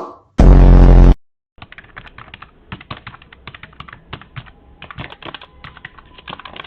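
A loud, buzz-like blast lasting under a second, then a few seconds of rapid, irregular clicking and tapping.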